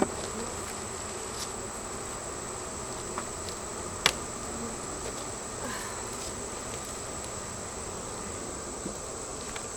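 Honeybees buzzing very loudly in an opened hive, a steady dense hum, with a few faint clicks and one sharp click about four seconds in.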